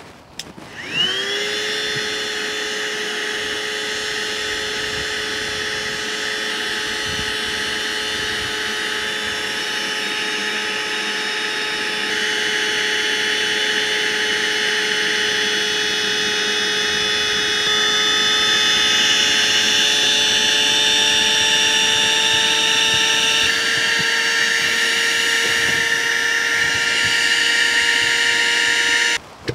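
Small electric motor spinning up about a second in and then running with a steady whine for nearly half a minute, its pitch shifting slightly a few times before it cuts off suddenly.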